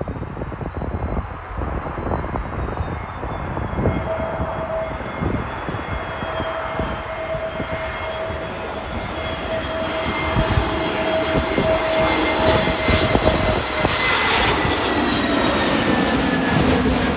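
Airbus A321neo's CFM LEAP-1A turbofan engines on landing approach: a jet rumble with steady whining tones that grows louder as the plane comes closer, the whine falling slightly in pitch near the end. Wind buffets the microphone throughout.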